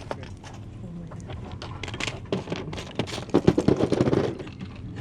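Small objects clattering and clicking as they are handled and moved around, with a dense run of rattling near the end.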